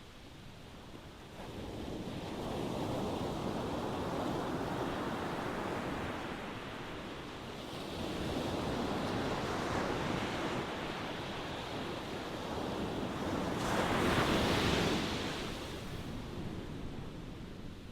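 Ocean waves washing ashore in slow, rolling surges; three swells rise and fall, the loudest about fourteen seconds in.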